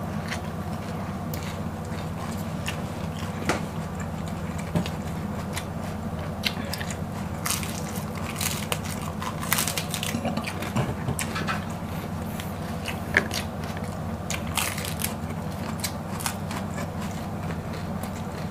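Crisp crunching bites and chewing of raw cabbage leaf, a string of short sharp crunches, over a steady low hum.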